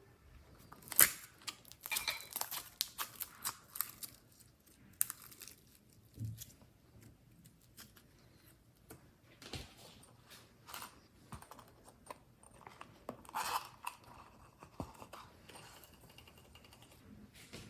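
Slime being squished and stretched by hand, giving sticky clicks, pops and crackles. They come in a dense run in the first few seconds and then turn sparser.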